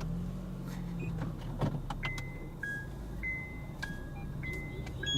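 Car engine idling low inside the stopped car's cabin, with a brief rising-and-falling hum in the first second. From about two seconds in comes a string of steady electronic beeps alternating between two high pitches, from the car radio between news items.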